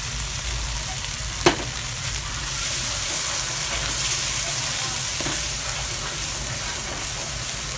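A thick spice paste of curry powder, curry leaves and chillies sizzling steadily in a hot wok as a wooden spatula stirs it, with one sharp knock about a second and a half in.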